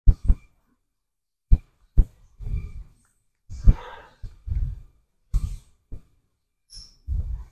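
A series of sharp knocks and clicks with short heavy breaths between them.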